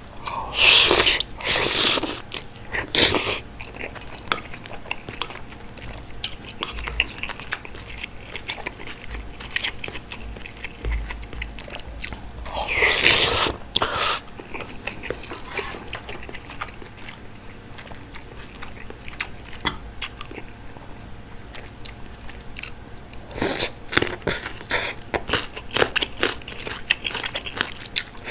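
Close-miked eating of bulgogi hot pot: chewing and biting. There are louder noisy mouthfuls near the start and about halfway through, and a run of quick wet clicks of chewing near the end.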